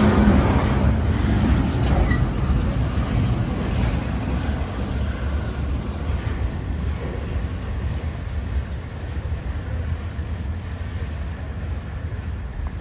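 CPKC intermodal freight cars rolling past on the rails: a steady rumble of wheels and cars that slowly grows quieter.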